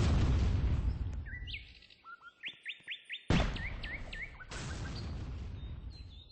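A bird calling: a run of short, quickly rising chirps in a quick series, heard in a lull between bouts of loud rushing noise that cover it at the start and again from about three seconds in.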